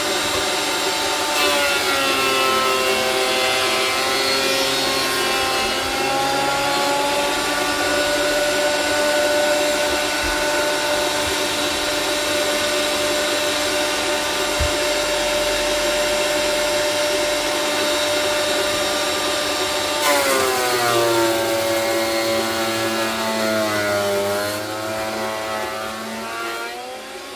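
Electric power-tool motor running loudly with a whine, its pitch dropping and recovering twice as if under load, then dying away near the end.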